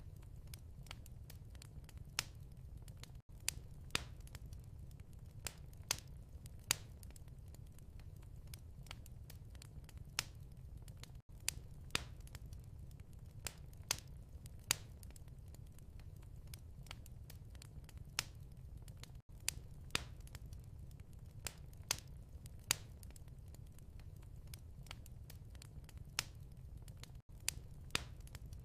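Wood fire crackling in a fireplace, with irregular sharp pops over a low steady rumble.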